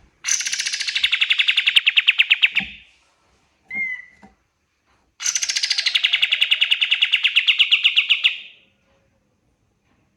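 Kapas tembak (white-shouldered triller) singing two long, rapid trills, each about three seconds long. A short whistled note comes between them.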